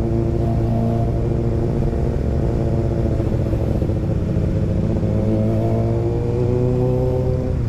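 Motorcycle engine running under way, its pitch fairly steady at first and then climbing for the last couple of seconds as it revs up.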